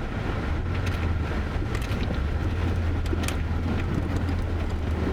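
Vehicle engine idling, a steady low hum, with a few faint clicks over it.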